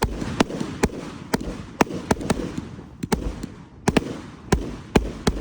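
Fireworks going off in a rapid barrage: a run of sharp bangs, about two a second, with continuous noise between them.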